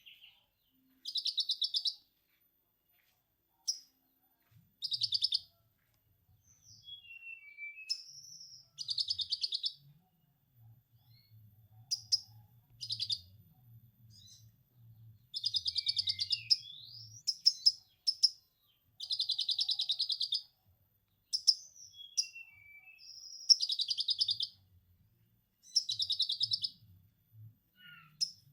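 Konin bird singing lovebird-style 'ngekek' material: repeated bursts of rapid, high chattering trills, each up to about two seconds long, with short chirps and whistled glides between them.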